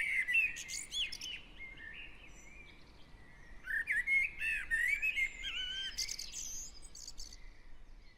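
Garden birds singing in a spring dawn chorus: warbling phrases with quick rising and falling notes, one burst near the start and a longer one from about three and a half seconds in, with a faint steady low hum of distant traffic beneath.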